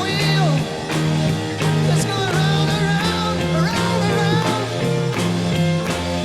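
A 1960s blues-rock recording playing, with electric guitar, a pulsing bass line, drums and singing.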